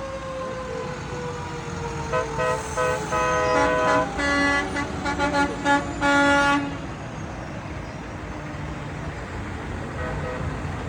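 Parade trucks sounding their horns: a long note sliding down in pitch, then a run of short and longer blasts from about two seconds in until about six and a half seconds, over the steady low rumble of the passing vehicles.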